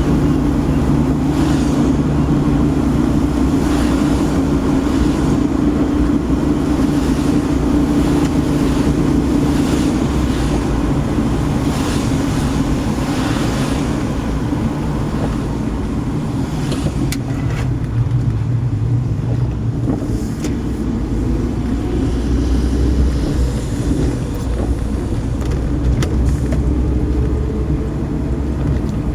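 Car driving at a steady pace, with a continuous low engine and road hum and a hiss that swells and fades. A few faint clicks come in the second half.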